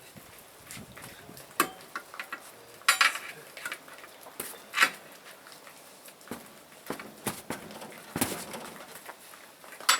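Irregular sharp metal clanks and knocks, several hits a second or two apart, from tools or metal parts being handled.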